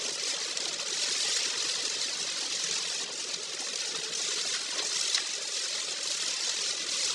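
Steady rushing hiss of a vehicle driving on a waterlogged road in typhoon wind and rain.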